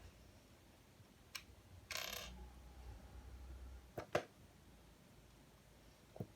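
Small plastic LEGO Technic pieces clicking and rattling as they are handled: a short rattle about two seconds in, then a few sharp clicks, the loudest just after four seconds, and one more near the end.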